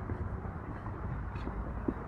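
Strong wind buffeting the microphone: a constant low rumble with small clicks and a sharper tick near the end.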